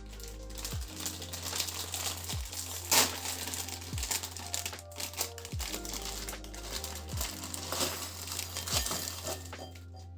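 Background music with a steady low beat, under crinkling and rustling from something being handled, with many small crackles and one louder crackle about three seconds in.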